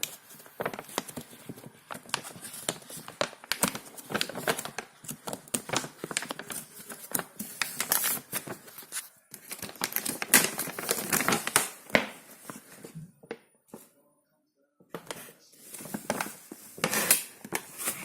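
Plastic packaging crinkling and tearing in irregular bursts of crackles, with a brief pause about three-quarters of the way through, as a dishwasher tablet is handled and unwrapped.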